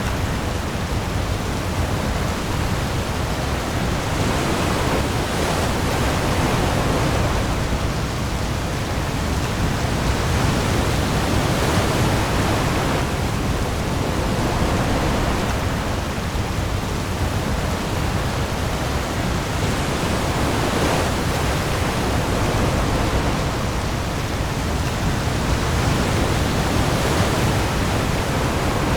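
Heavy rain on the open sea with waves: a dense, steady hiss that swells gently about every seven or eight seconds over a deep low rumble.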